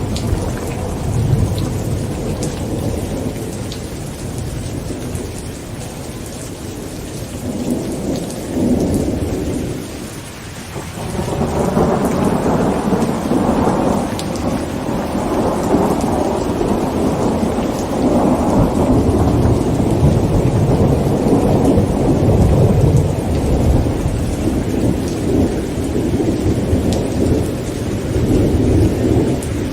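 Thunderstorm with heavy rain on a tent: continuous rolling thunder over steady rain. The rumble swells and fades, eases briefly about ten seconds in, then grows louder and keeps rolling.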